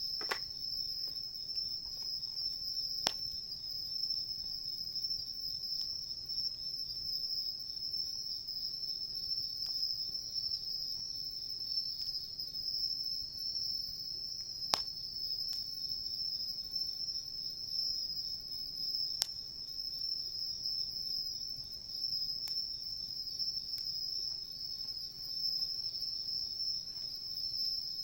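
Crickets chirping in a steady high-pitched chorus, with now and then a single sharp crackle from a wood fire, the loudest about fifteen seconds in.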